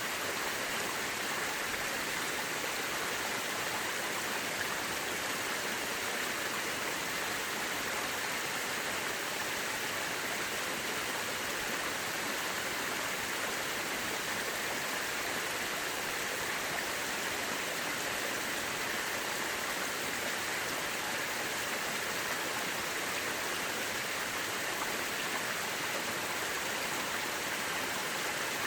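Mountain river rushing over rocks: a steady, even water noise.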